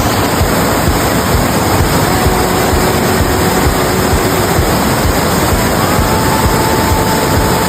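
Waterfall crashing down in a loud, steady roar of water, close to the microphone. A few faint held tones sound over it.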